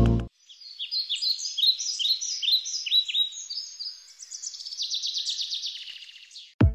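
A songbird singing: a string of quick chirps and down-slurred whistles, running into a fast, even trill near the end.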